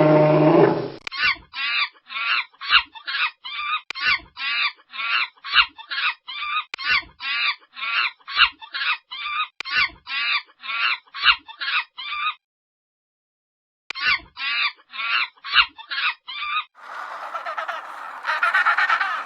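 A farm bird calling over and over, short calls about two and a half a second, with a break of a second or so after about twelve seconds. The first second holds the end of a cow's moo, and a different, noisier animal sound begins near the end.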